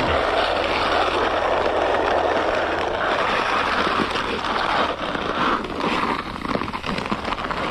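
Work truck running, a steady engine hum under a loud rushing noise, which turns patchier with short crackles over the last few seconds.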